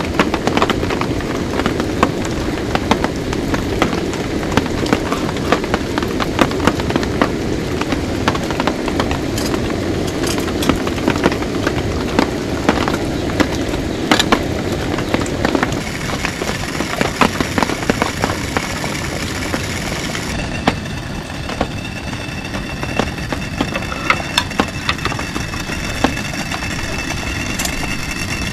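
Heavy rain pouring down, a dense steady hiss full of sharp, separate drop hits.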